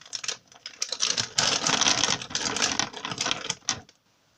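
Small hard candy sprinkles rattling in their container as they are shaken out: a dense run of rapid clicking that stops abruptly a little before the end.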